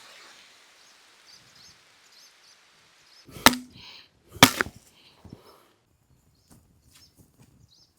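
Two sharp chopping strikes about a second apart, the first with a brief ring, followed by a few faint knocks.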